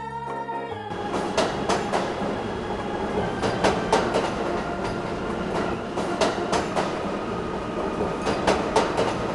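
Train sound effect: a rumbling run on rails with repeated sharp clicks of wheels passing over rail joints, taking over from organ music about a second in.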